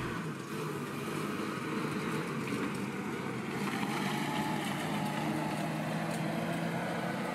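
Moskvich 411's four-cylinder engine running at a steady note as the car drives by.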